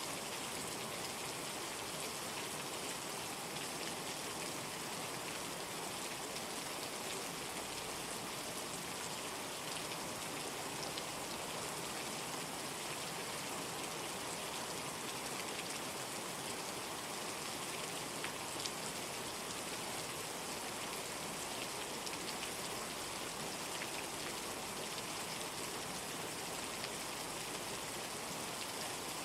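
Steady heavy rain, an even hiss with a few sharper drops ticking through it.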